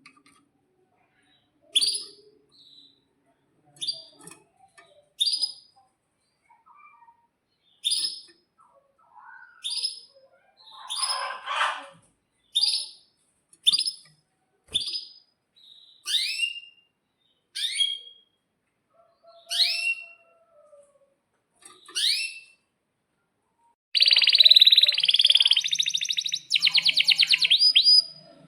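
Domestic canary calling with sharp single chirps every second or two, some sweeping downward in pitch. Near the end it breaks into a loud, fast rolling trill.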